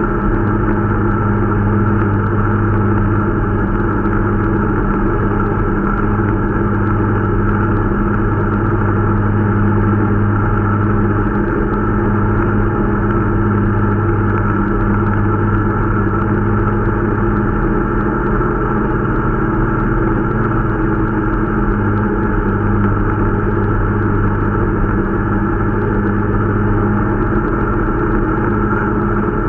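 Irbis Dingo T125 snowmobile's 125 cc single-cylinder four-stroke engine running at a steady, even speed while the machine is being broken in.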